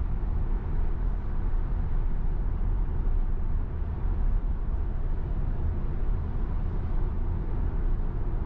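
Steady road and tyre rumble heard inside a Tesla Model Y's cabin while it cruises at highway speed on a wet road in the rain.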